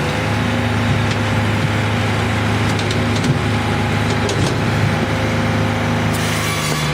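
Hydraulic firewood processor running, its power unit droning steadily, with scattered sharp knocks of wood being handled and split, and a short hiss near the end.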